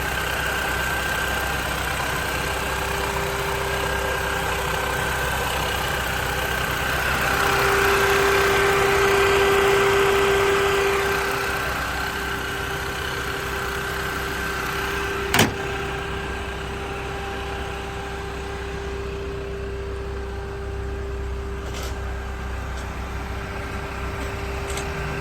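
Car engine idling with a steady hum and a held tone, swelling louder for a few seconds in the middle. A single sharp click comes about fifteen seconds in.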